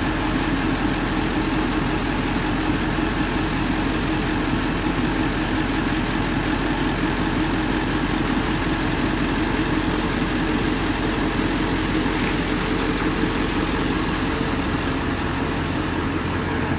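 1999 Ford F450 crane truck's engine idling steadily, with the PTO engaged to drive the crane's hydraulics.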